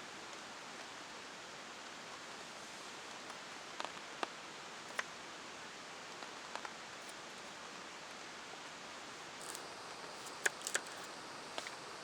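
Steady rain hiss, with a few scattered sharp ticks, the loudest of them close together near the end.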